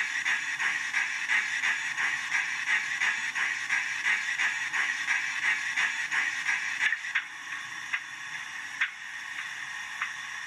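Westinghouse air pump sound from the DCC sound decoder of an Accurascale J68 model tank locomotive, played through its small onboard speaker. It is a rapid, rhythmic pulsing of about three beats a second. The pulsing stops about seven seconds in, leaving a quieter steady hiss with a few clicks.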